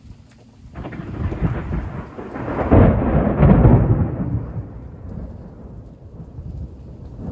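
A long rumble of thunder. It starts abruptly about a second in, swells to its loudest around three to four seconds in, then fades slowly.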